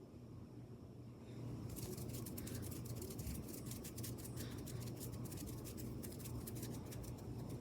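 Close-miked ASMR tapping: a fast run of crisp light clicks, about nine a second, starting a little under two seconds in and stopping near the end, over a steady low hum.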